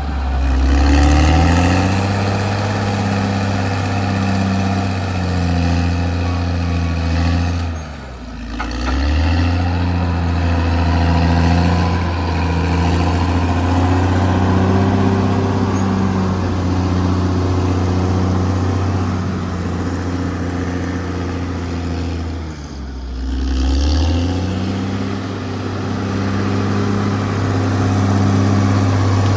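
Caterpillar D6R XL bulldozer's diesel engine running steadily under load. Its speed dips and recovers twice, about eight seconds in and again about twenty-three seconds in.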